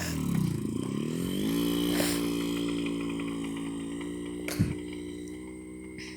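Small moped engine running as it pulls away. Its pitch dips and climbs back within the first second and a half, then holds steady while it slowly fades as the moped rides off. A brief sharp knock comes about four and a half seconds in.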